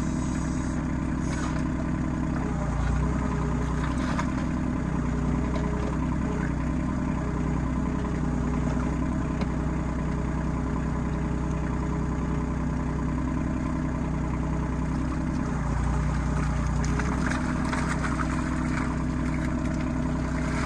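RK25 compact tractor's engine running steadily, its pitch shifting slightly a few times.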